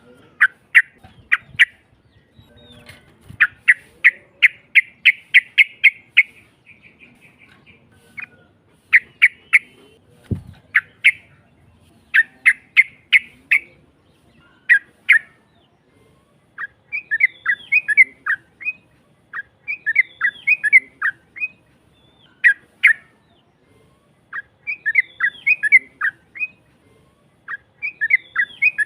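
Yellow-vented bulbul (trucukan) singing in a harsh voice: strings of rapid, sharp chirping notes in the first half, changing to repeated warbled phrases in the second half. A single low thump sounds about ten seconds in.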